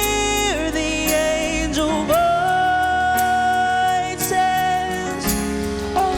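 A worship band playing a slow ballad, with a long held melody note in the middle.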